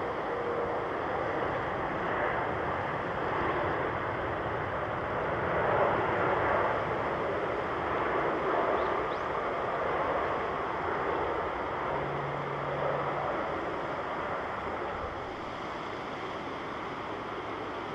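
Distant jet airliner engine noise, a steady rushing rumble that swells about a third of the way in and then slowly fades.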